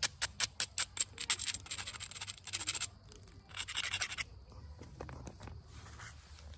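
Onondaga chert point being worked during flintknapping: a quick run of sharp scratching strokes against the stone edge, about five a second. About three and a half seconds in comes a longer scrape, then only faint rubbing.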